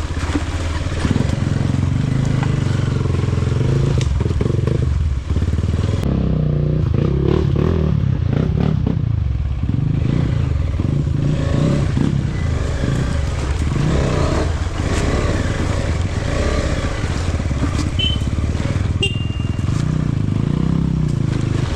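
Off-road motorcycle riding along a rough trail: the engine runs steadily under way, with clatter and knocks from the bike over bumpy ground.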